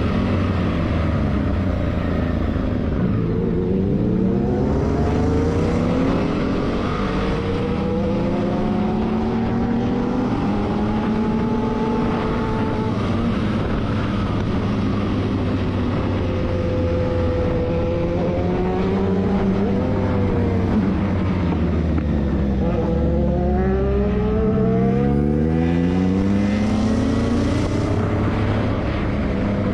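Motorcycle engine running, its pitch rising and falling several times as it is revved or ridden through changes of speed, settling back to a steady note near the end.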